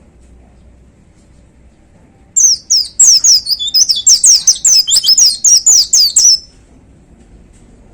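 A pleci (white-eye) songbird singing a fast burst of high, downward-sweeping notes, about four or five a second. It starts about two seconds in and stops suddenly some four seconds later.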